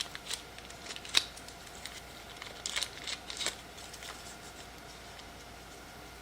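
Scattered small clicks and light rustling of a charging cable being pulled out of its packaging and case, the sharpest click about a second in; the handling dies away after about four and a half seconds.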